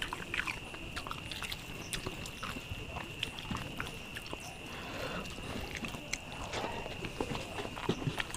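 Close-miked chewing with wet mouth clicks and lip smacks as rice mixed with egg curry is eaten by hand, along with soft squishing of fingers mashing rice on a banana leaf. The sound is a scatter of short clicks and squelches.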